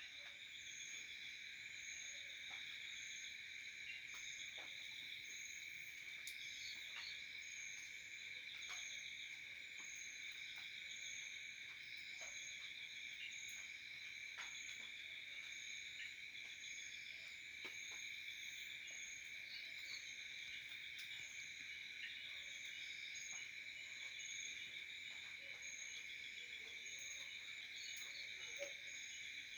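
A steady chorus of insects trilling without a break, several high pitches at once, with a few faint scattered clicks.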